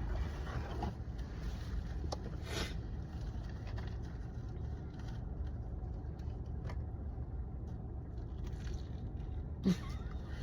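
Quiet eating: a few short faint crunches from chewing fried chicken tenders over a steady low hum, with one brief vocal sound, a short falling "mm", near the end.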